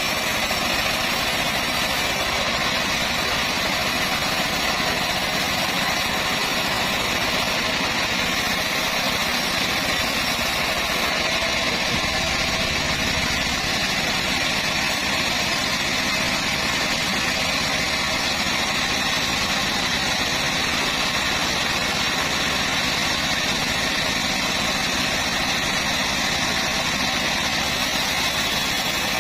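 Band saw running steadily while cutting acacia wood, an even machine hum with no change in speed or load.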